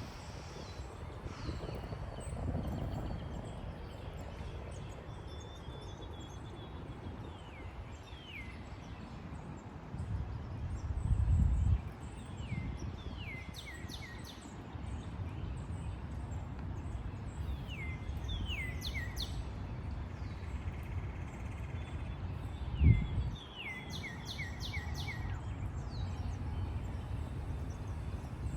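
Birds calling: many short, downward-sliding chirps, often in quick runs of three or four, over a steady low background noise. A louder low rumble comes about ten seconds in, and a single thump near the end.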